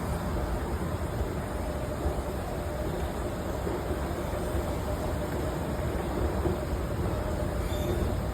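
Steady wet city-street ambience in the rain: an even rushing noise of rain and passing traffic, with a faint low hum running under it.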